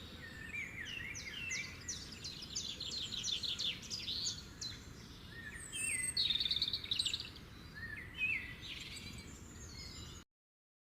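Several small birds chirping and twittering in quick repeated trills over a steady low background rumble; the sound cuts off suddenly near the end.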